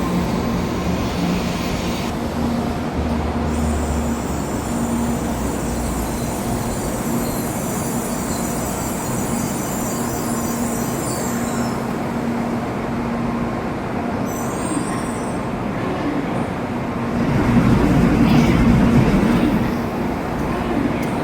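Shinkansen train moving at a station platform: a steady rush of running noise, with a high squeal from about four seconds in to about twelve, and a louder surge near the end.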